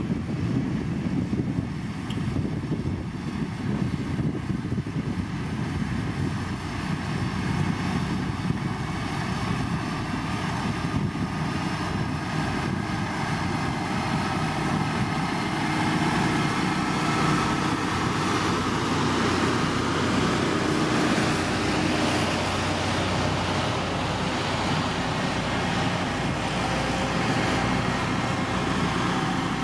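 Heavy road-construction machinery running steadily, a continuous engine drone that grows a little louder with steady engine tones from about halfway through.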